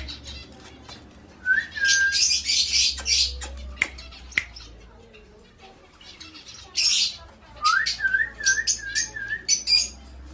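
Indian ringneck parrot squawking and whistling. About a second and a half in it gives a rising whistle and then a harsh screech; a second screech comes near the end, followed by a run of about five wavy whistled notes.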